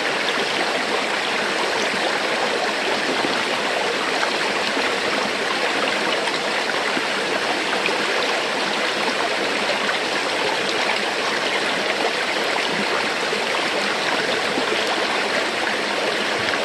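River water flowing steadily over rocks, a constant rushing and babbling with no break.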